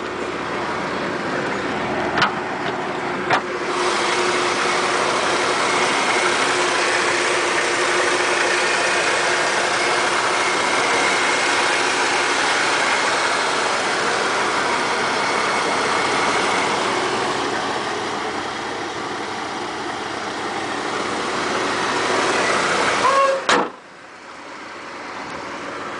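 1996 Ford F-150's 4.9L straight-six running through a Cherry Bomb glasspack muffler, a steady engine and exhaust sound. Two sharp clicks come a few seconds in, and a loud knock near the end, after which it is quieter.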